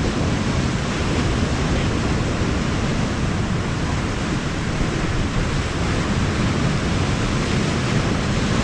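Steady noise of wind and sea surf, with wind buffeting the microphone.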